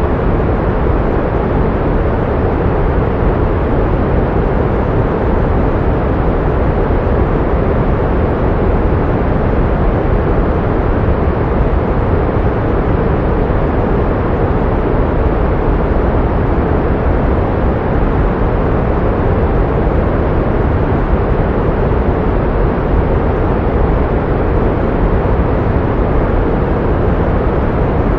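Steady pink noise: an even, unchanging hiss weighted toward the low end, played as sound therapy to mask tinnitus.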